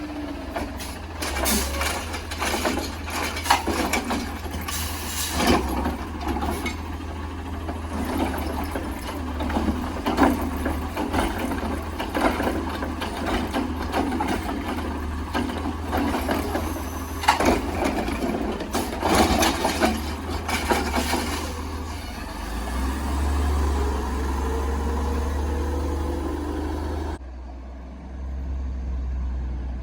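Older LNG-powered side-loader garbage truck running, with repeated clanks and rattles for about twenty seconds as it works its collection. Then a rising whine as the engine revs, and the sound changes abruptly near the end.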